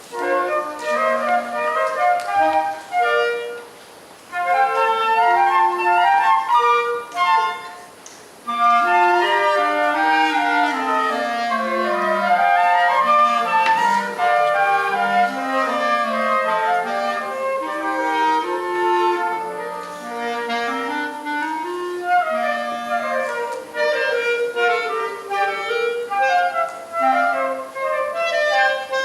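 Small student chamber ensemble of woodwinds playing a piece in several parts, the melody lines moving against each other. The music pauses briefly about four seconds in and again about eight seconds in, then plays on.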